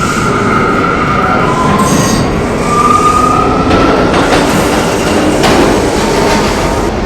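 R179 subway train running between stations, wheels squealing on the rails over a steady rumble and rail clatter. The squeal rises slowly in pitch about a second and a half in.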